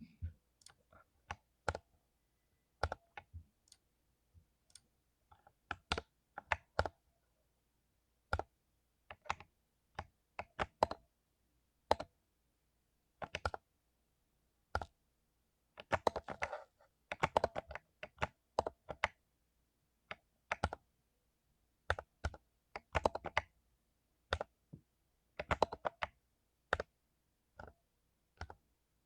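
Mechanical keyboard with lubed Cherry MX Silver linear switches being typed on. The keystrokes are irregular, with pauses, and run faster in a few quick bursts around the middle and later on.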